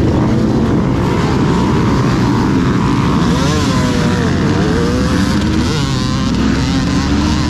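Several dirt bike engines running together, their pitches rising and falling as they rev.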